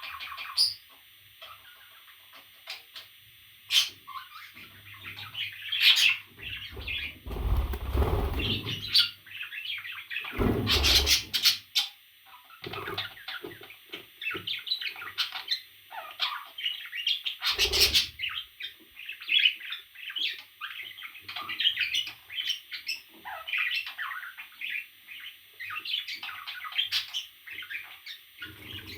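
Pet parrot chirping in many quick, short high calls, broken by three louder flurries of noise that sound like wings flapping.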